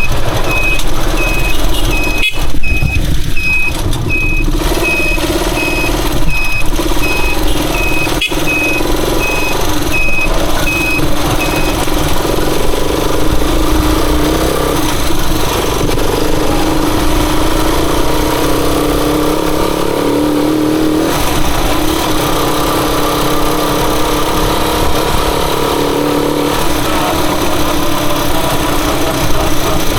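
Motorcycle engine running steadily, with its note rising a little about two-thirds of the way through. For the first dozen seconds a short electronic beep repeats about twice a second.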